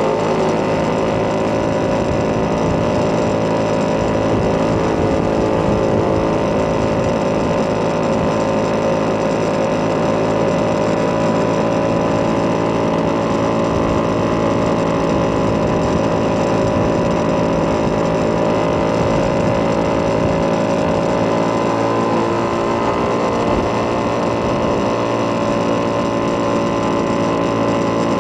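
Vespa PX200's two-stroke single-cylinder engine, bored out with a Polini 210cc kit and breathing through a Malossi expansion-chamber exhaust, running under way at fairly steady revs.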